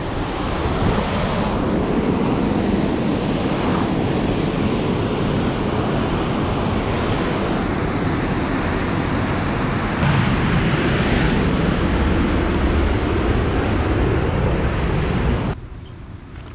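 Loud, steady rush of fast-flowing water, a little louder from about ten seconds in. It cuts off abruptly about a second before the end, leaving a quieter background with a few light clicks.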